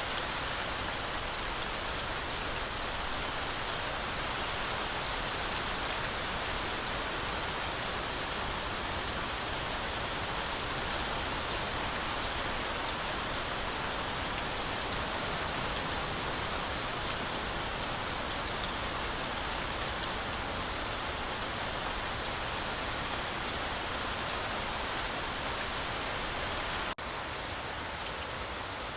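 Heavy rain falling steadily through a forest canopy, a dense even hiss flecked with drop ticks. Near the end it breaks off for an instant and then carries on slightly quieter.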